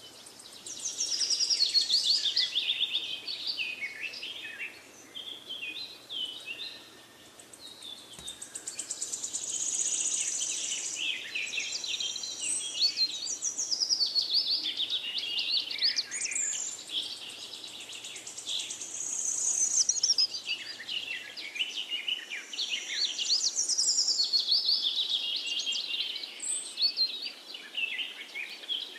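Birdsong: many birds chirping and trilling together, a continuous run of quick, high chirps and warbling phrases.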